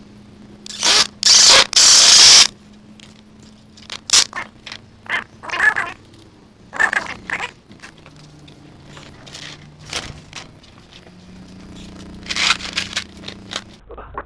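Loud scraping in three strokes about a second in, then scattered knocks, clicks and short scrapes, and another scrape near the end, over a faint steady hum: hands-on construction work with materials.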